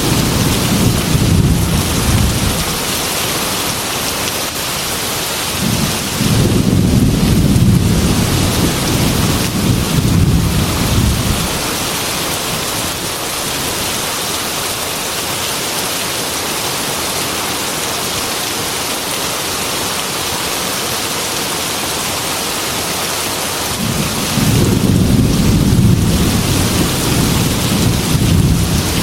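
Heavy rain pattering steadily on a glass window, with low rolling thunder that swells three times: at the start, again about six seconds in for several seconds, and near the end.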